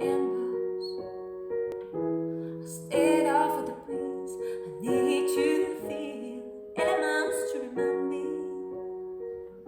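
Piano playing slow, sustained chords, joined by a few short sung phrases.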